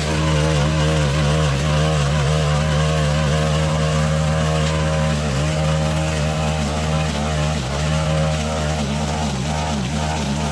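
Stihl FS 131 brushcutter's 4-MIX engine running at high speed, its pitch dipping and recovering again and again as the cutting head bites into tall canary grass.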